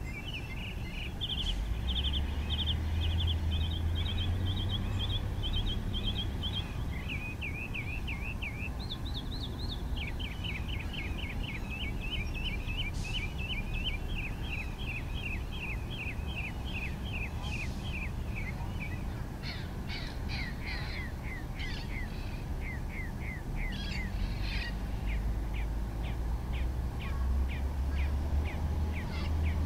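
Birds calling and singing in long runs of rapid, repeated short notes and trills, with a steady low rumble that swells at the start and again near the end.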